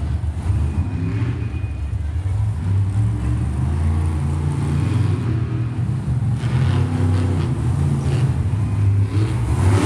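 Monster truck engine running loud and deep, rising and falling as the driver works the throttle.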